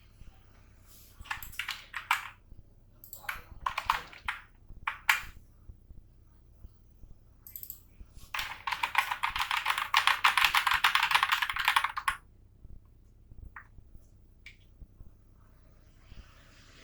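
Typing on a computer keyboard: a few short bursts of keystrokes, then a long fast run of clicks lasting about four seconds, then a few single key presses.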